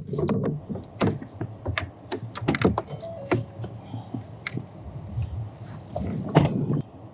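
Irregular clicks, taps and knocks of hands handling the camera and its mount, with a louder thump about six and a half seconds in.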